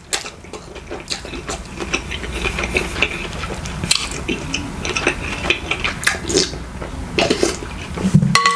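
Close-miked eating sounds: wet chewing and slurping, with utensils clinking irregularly against a dish.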